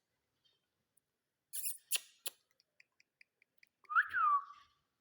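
Parrot whistling: a short whistle about four seconds in that rises and then glides back down. Before it come a few scratchy clicks and a quick run of faint soft peeps.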